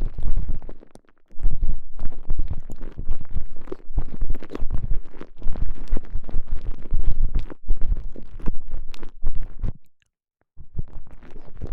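Microphone inside a soft TENGA Egg elastomer sleeve being squeezed and rubbed, giving loud, muffled rubbing and scraping that is heavy in the low end, in irregular strokes. It breaks off briefly about a second in, stops about ten seconds in, and starts again just before the end.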